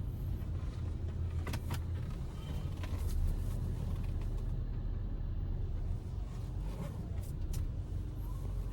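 Steady low rumble of a car running, with a few short clicks.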